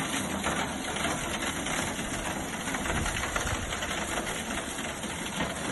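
Steady rush of floodwater pouring and churning, an even noise with no let-up.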